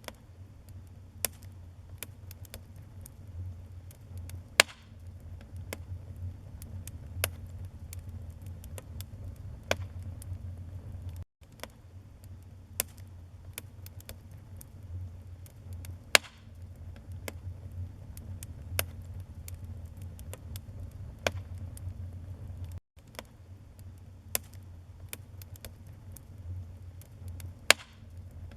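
Wood fire burning in a fireplace: irregular sharp crackles and pops, a few much louder than the rest, over a steady low rumble. The sound cuts out for an instant twice.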